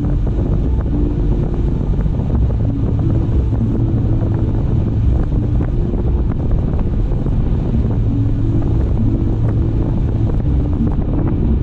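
Car driving at speed: steady low tyre and road rumble with wind noise, and scattered small ticks from the road surface.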